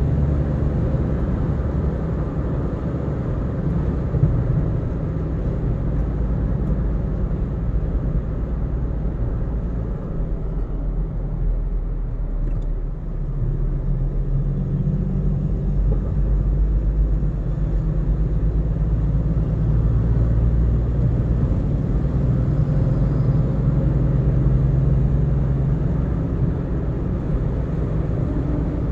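Car driving at highway speed: a steady low rumble of engine and tyre noise, easing slightly for a couple of seconds near the middle.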